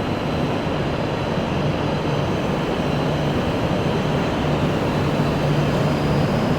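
Shinkansen train at the platform: a steady rumble with a constant low hum and a faint high whine, growing slightly louder toward the end.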